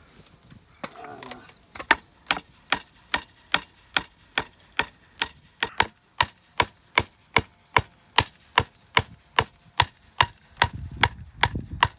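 Garden support stake being hammered into the ground: a steady run of sharp blows, about two to three a second, starting about two seconds in.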